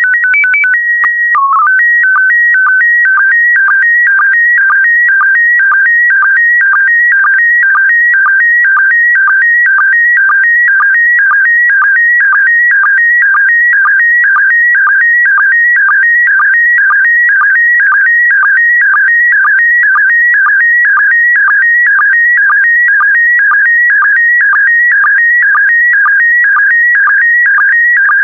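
Slow-scan television (SSTV) signal in PD120 mode. It opens with a short header of held tones and a few quick switches, then carries the picture as a steady warbling tone, broken about twice a second by a short lower sync blip that marks each pair of image lines.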